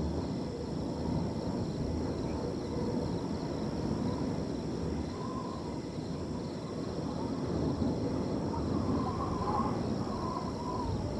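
Wind blowing through a field, with crickets trilling steadily and high in the background. A few faint wavering animal calls come and go, several of them in the second half.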